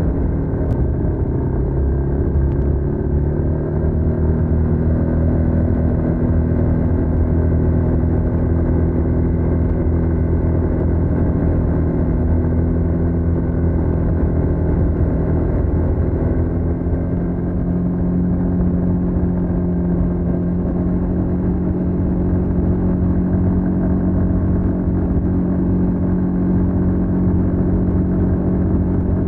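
Stock exhaust of a TVS NTorq 125 scooter's single-cylinder four-stroke engine, running steadily under way. Its note changes pitch about halfway through as the revs change.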